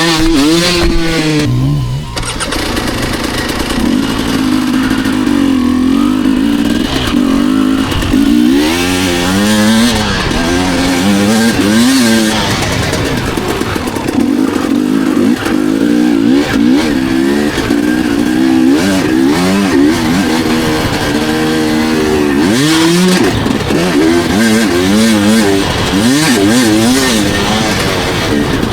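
Dirt bike engine ridden hard around a motocross track, its pitch repeatedly rising and falling as the throttle is opened and shut and gears change.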